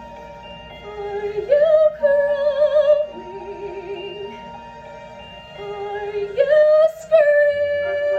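A woman's classical soprano voice singing long, held notes with vibrato over a steady instrumental accompaniment. She rises to a higher held note twice, about a second and a half in and again about six and a half seconds in.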